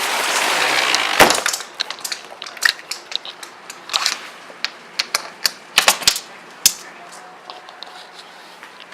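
Steady hiss of heavy rain that cuts off at a sharp knock about a second in. After that, irregular clicks and taps over a much quieter background.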